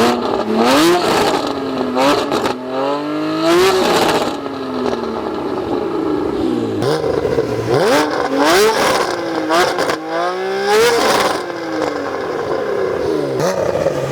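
Porsche Cayman GT4's 3.8-litre naturally aspirated flat-six exhaust, revving hard: the engine note climbs in pitch and falls away again several times.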